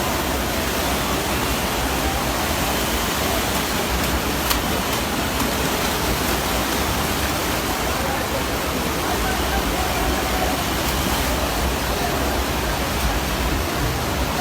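Floodwater rushing steadily, a constant noise of flowing water with faint voices under it.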